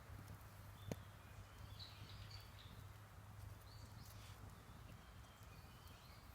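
Quiet forest ambience with a few faint, short bird chirps and one sharp click about a second in.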